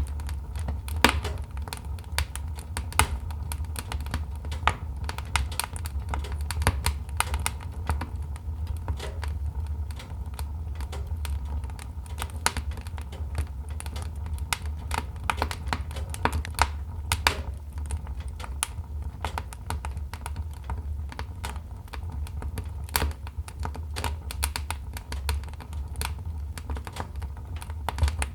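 Wood fire in a fireplace crackling: a dense, irregular stream of sharp pops and snaps of uneven loudness over a steady low rumble.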